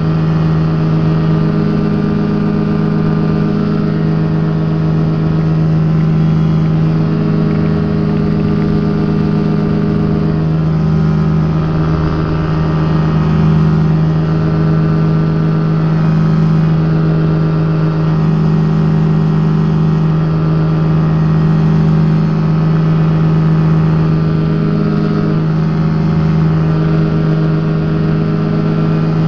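Rotax engine of a Quad City Challenger ultralight running steadily in flight, its propeller droning, heard from the open cockpit.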